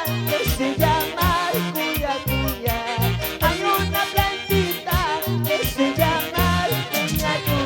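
A band plays upbeat Latin dance music: a steady, pulsing bass and drum beat under a wavering melody line.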